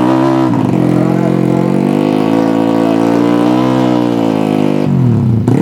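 Tuned 200cc underbone drag-race motorcycle engine running at high revs under full acceleration. The revs dip briefly about half a second in, hold high and climb slowly, then fall away sharply near the end before picking up again.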